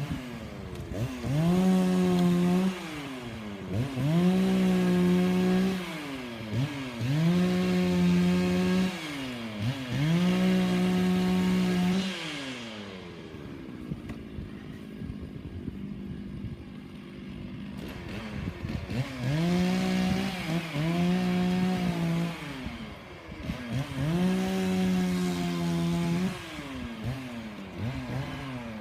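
Gas chainsaw revving to full throttle in repeated bursts of about two seconds, dropping back to a lower pitch between bursts. It runs lower and quieter for several seconds mid-way before the revving resumes.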